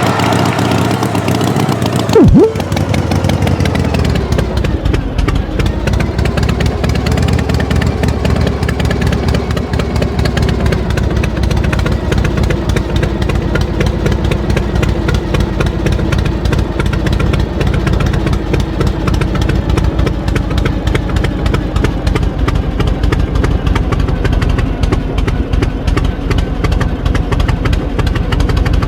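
An engine running with a fast, even putter, its pitch dipping about five seconds in and then holding steady. A short, loud knock about two seconds in.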